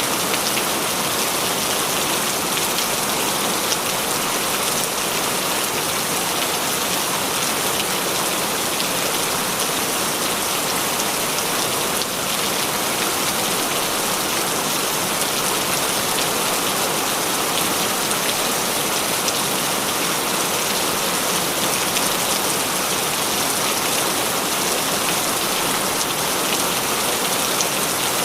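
Heavy rain falling steadily, a dense even hiss with the patter of many drops hitting a surface.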